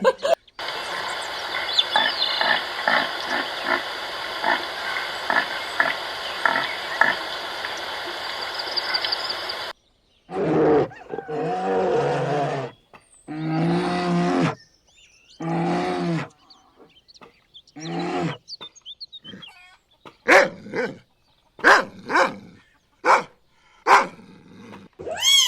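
A lion's roaring bout: long roars that grow shorter one after another, then a run of short grunts about one a second. Before the roars comes several seconds of a different steady noise with a regular pattern of faint ticks.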